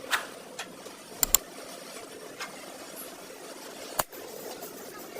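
Workshop hand-tool work on a car body: a few sharp knocks, a quick pair about a second in and another near the four-second mark, over a steady background noise.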